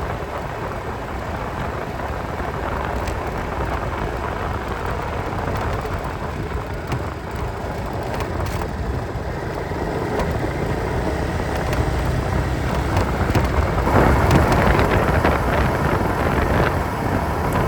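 Honda Reflex 250 scooter riding along: its single-cylinder engine under road and wind noise, heard through a phone mounted on the scooter. It grows louder from about twelve seconds in.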